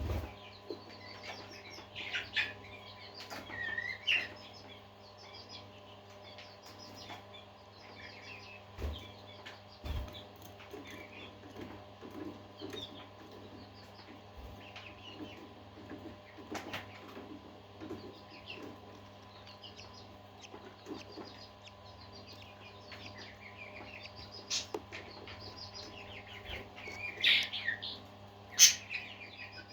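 Several parakeets chattering and warbling with a steady stream of short chirps, louder calls about two to four seconds in and again near the end, over a steady low hum.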